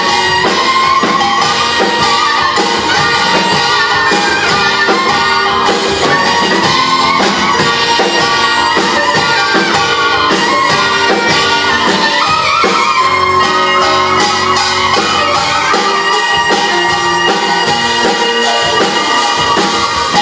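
Korean fusion gugak ensemble playing live and loud: regular drum strikes under a sliding melody line, in the closing passage of the piece.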